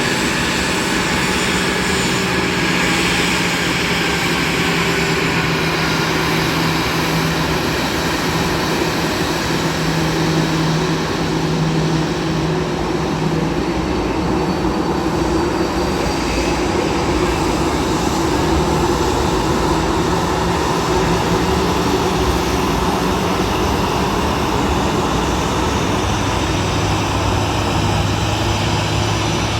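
Airbus A320-214's CFM56-5B jet engines running at a steady, loud level: a dense roar with a low steady hum underneath.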